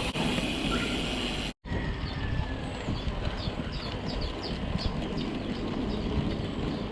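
Wind rumbling on the microphone of a mountain bike in motion, with a short break about a second and a half in. A run of short, high, quick chirps comes in the middle.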